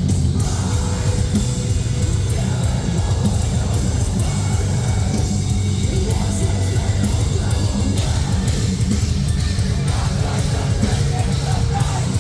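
Live metalcore band playing at full volume: heavily distorted guitars, bass and fast, dense drumming, recorded from the crowd.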